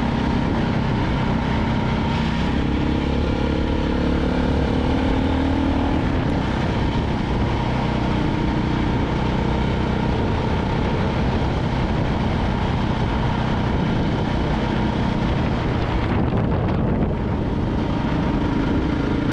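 KTM single-cylinder dual-sport motorcycle under way, its engine note rising as it pulls away through the first few seconds, then running steadily under a constant rush of noise.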